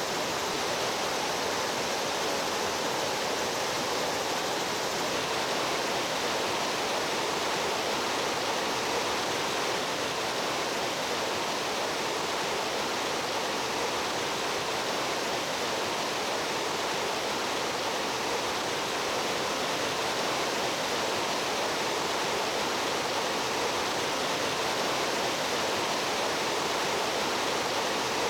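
A mountain stream's water rushing steadily.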